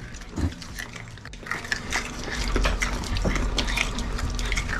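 Konpeito, small hard sugar candies, being crunched between the teeth close to the microphone: a rapid run of small sharp cracks, with a low rumble joining about halfway through.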